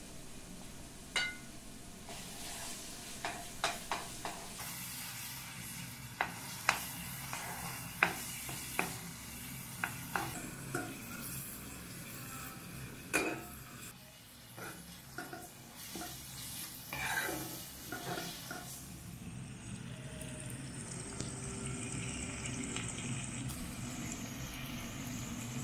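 Green beans and tomato paste sizzling in a pot, with a spoon stirring and knocking sharply against the pot many times. Near the end the clicking stops and sliced mushrooms are tipped in onto the frying beans.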